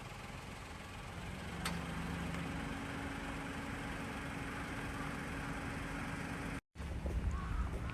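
Car running steadily, a low engine rumble with a faint steady hum and hiss. Near the end the sound drops out for an instant, then a louder low rumble follows.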